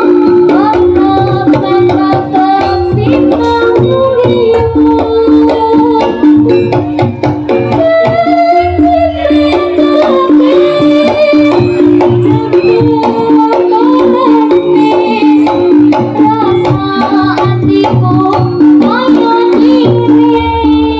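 Live Javanese jaranan ensemble music: hand drums play a busy rhythm under repeated ringing pitched tones, with a melody line that bends in pitch.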